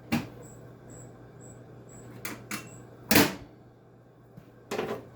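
Five sharp knocks and clatters of hands handling parts on a window air conditioner: a single knock right at the start, two lighter ones a little past two seconds, the loudest a little past three seconds in, and another near the end. A steady low hum runs underneath.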